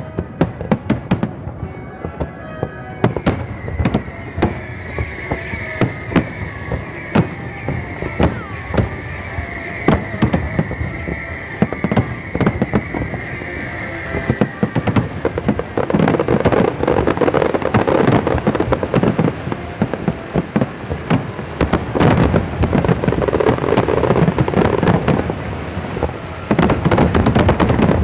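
Fireworks display: a continuous run of shell bursts and crackling, with a sizzling hiss for several seconds early on, growing denser and louder toward the end.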